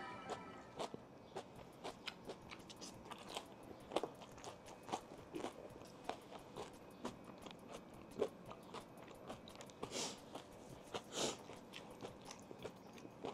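A person chewing crunchy breaded chicken tenders close to a lapel microphone: faint, irregular crunching bites and chews, with a few louder crunches along the way.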